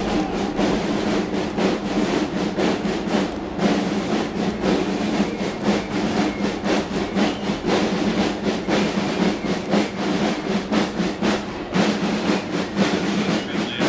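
Military band playing a march while massed troops march in step, their boots striking the pavement in a steady rhythm.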